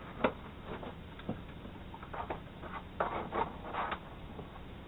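Light clicks and scraping of small metal parts as a spring and valve are fished out of a backhoe hydraulic swing cylinder. There is one sharp click about a quarter second in, then a run of rubbing scrapes about two to four seconds in.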